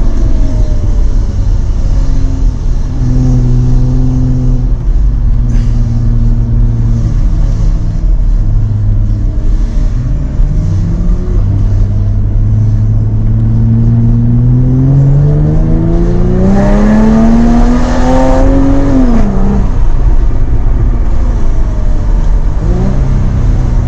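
Jaguar F-Type sports car engine and exhaust on the road: running at steady revs with a few small steps in pitch, then one long acceleration with the pitch rising for several seconds and growing louder, cut off by a sharp drop as the throttle lifts toward the end. A steady low road rumble sits underneath.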